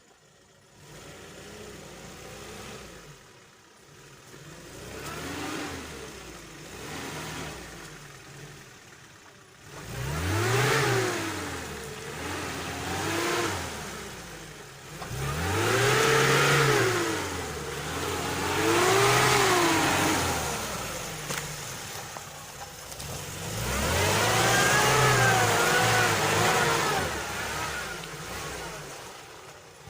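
Lada Niva's engine revving up and falling back in about five loud surges, after a quieter stretch at low revs.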